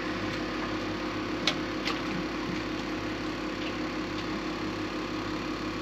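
A motor running steadily, a constant hum with a fixed pitch, with two short clicks about a second and a half and two seconds in.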